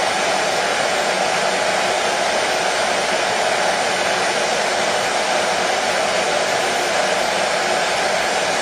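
Hair dryer running steadily: an even, unbroken rush of blowing air and motor hum, played as white noise to soothe a colicky baby.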